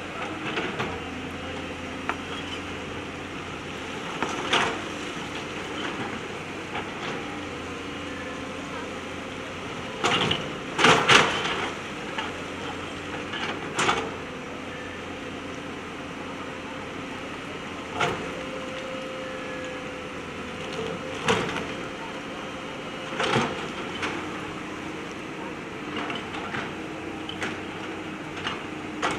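JCB backhoe loader's diesel engine running steadily, with sharp clanks and knocks now and then as the bucket strikes and moves river stones, several in quick succession about ten seconds in.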